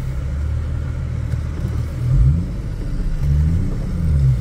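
Infiniti G35 sedan's VQ35HR V6 running on the road, heard from inside the car, its low engine note rising and falling a couple of times as the car accelerates and eases off.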